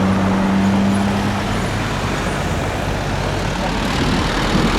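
Steady loud engine rumble with a low hum that stops about one and a half seconds in.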